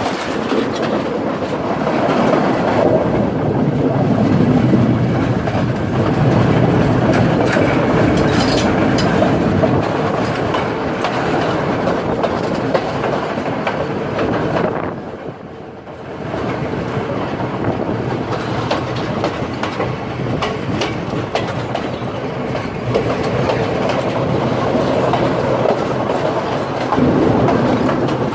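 Express passenger train running along the line, a steady rumble with wheels clicking over the rail joints. The noise drops briefly about halfway through, then carries on.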